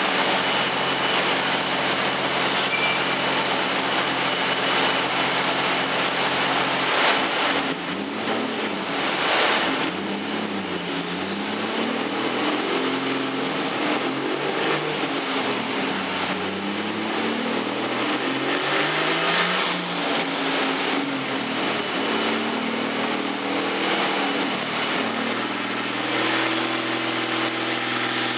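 Nissan RB25 Neo turbocharged straight-six in an S13 Silvia running on a chassis dyno for a power run. It runs steadily at first, with two sharp bangs about seven and nine seconds in. The engine then revs under load while a high whine rises steadily for over ten seconds, and it settles back to a steady run near the end.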